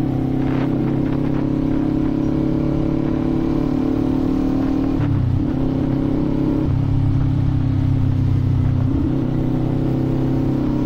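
Kawasaki Z400 parallel-twin engine running under way. Its note shifts in steps a few times, most clearly about five and nine seconds in.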